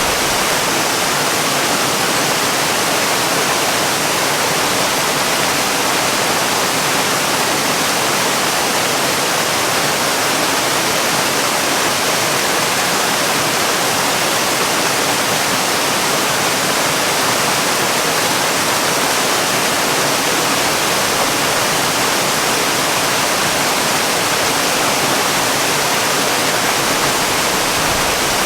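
Waterfall: a steady, unbroken rush of falling water, bright and hissy, with little low rumble.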